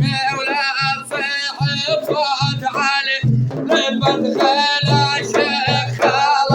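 A man singing a praise song in a wavering, ornamented voice, backed by music with a repeated low drum beat.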